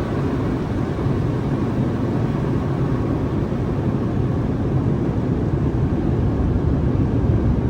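Steady low mechanical rumble, even throughout, with no breaks or sudden sounds.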